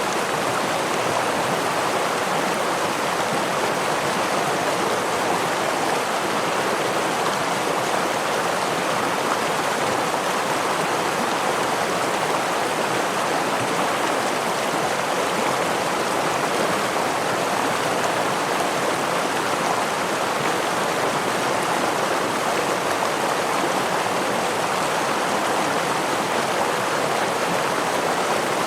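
Flowing water of a small river or stream over rocks, a steady, unbroken rush with no separate splashes.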